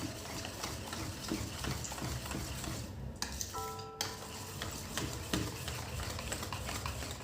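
A spoon stirring food in a cooking pan: irregular light scrapes and taps against the pan.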